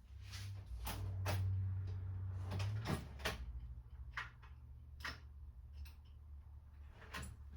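Scattered light clicks and knocks of small parts being handled, about a dozen in all, over a steady low hum. These fit a rotary tool and its small mandrel, nut and washers being picked up and fiddled with while it is set up for a cutoff wheel.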